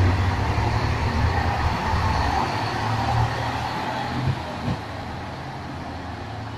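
A train running past a station platform and pulling away, its wheel and running noise loud at first and then fading after about four seconds, with a couple of clacks from the wheels on the rails as it goes.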